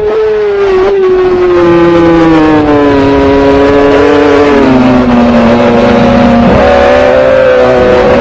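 Racing superbike engine at high revs, its note falling steadily for about four and a half seconds, then holding lower and starting to climb again near the end.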